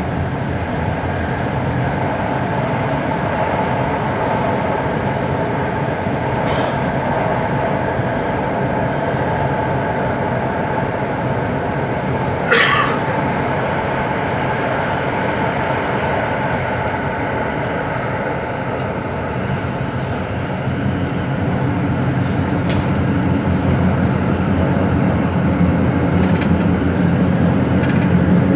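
Santiago Metro AS-14 train running, heard from inside the car: a steady rumble of wheels and motors. One brief sharp high sound comes about twelve seconds in, and the low rumble grows louder over the last several seconds.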